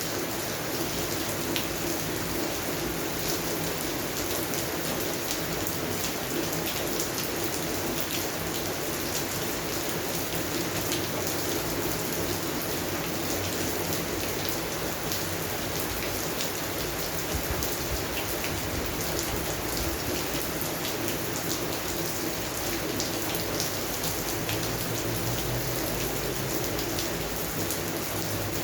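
Steady rain falling on a garden: an even hiss with many separate drops ticking through it.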